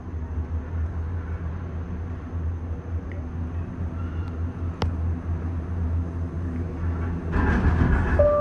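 Disney Skyliner gondola cabin riding the cable, giving a steady low rumble. A single sharp click comes about five seconds in, and a louder rattling rush starts near the end.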